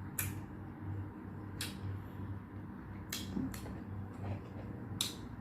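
Eating sounds close to the microphone: four short, crisp noises about a second and a half apart over a low steady hum.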